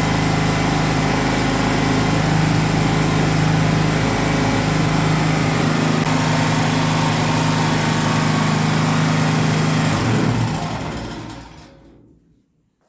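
Small gasoline generator engine running steadily, its fuel supply restored after a pinched fuel inlet hose was freed. About ten seconds in, the sound dies away to near silence.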